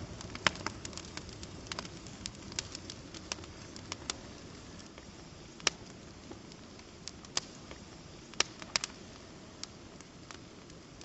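Wood fire crackling: a low steady rush with irregular sharp pops and snaps, many in the first few seconds and fewer, louder single pops later.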